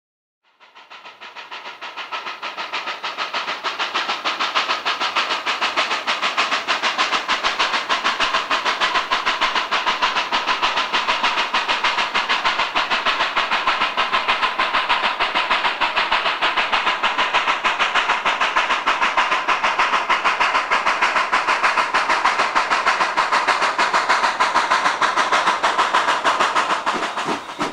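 Narrow-gauge steam locomotive running, with a rapid, even beat of exhaust chuffs over steady hiss, fading in over the first few seconds.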